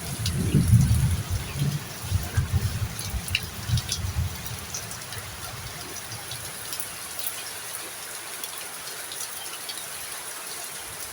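Heavy rain falling steadily, with scattered drops ticking sharply through the hiss. A low rumble sits under it for the first four seconds or so.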